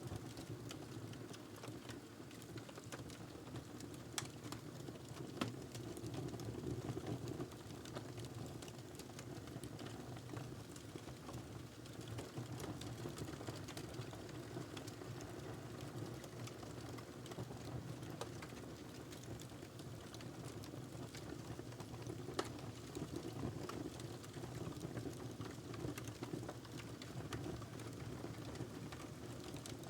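Log fire crackling in a fireplace: a steady low rush of burning wood with scattered sharp pops, a louder one about five seconds in.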